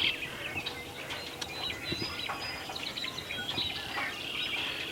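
Dawn chorus of wild songbirds: many overlapping short chirps and whistles from several birds at once, over a faint steady background hum.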